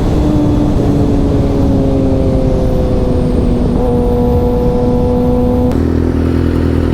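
Inline-four sportbike engine running at a steady cruising speed, its pitch sagging slowly, over a heavy rush of riding wind on the microphone. About six seconds in, the engine note changes to a lower, rougher tone.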